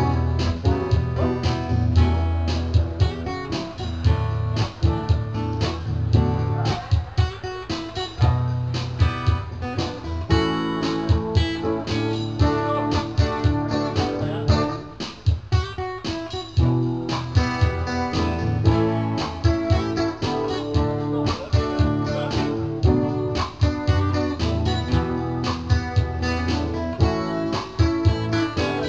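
Live instrumental music led by a strummed guitar, playing a steady rhythm over a bass line, without singing.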